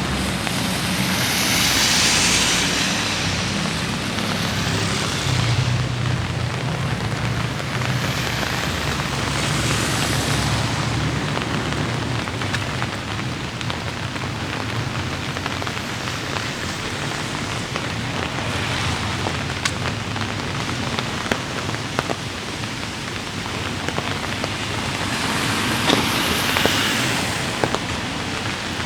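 Light rain falling steadily, with wet-road hiss from passing traffic swelling up and fading away several times.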